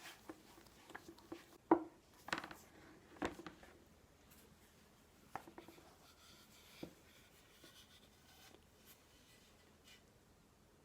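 Light kitchen handling sounds: scattered soft knocks and clicks, a few sharper ones in the first four seconds, with faint rubbing between them.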